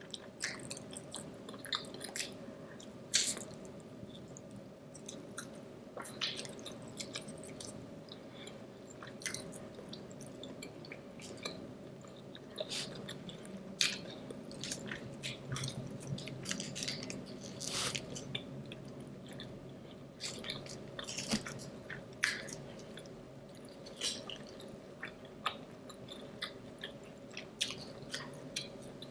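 A person chewing food close to the microphone: irregular wet mouth clicks and smacks, a few of them sharper and louder, over a steady low hum.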